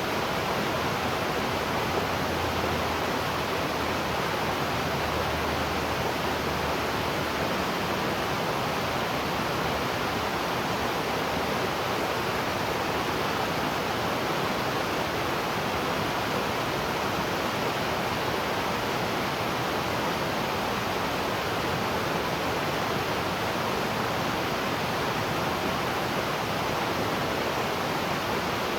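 Waterfall: water falling and rushing in a steady, even roar of noise with no breaks or distinct splashes.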